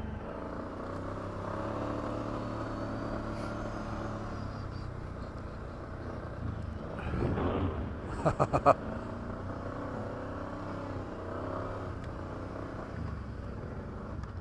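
ATV engine running steadily at low trail speed, with a brief swell around the middle followed by four quick, sharp knocks.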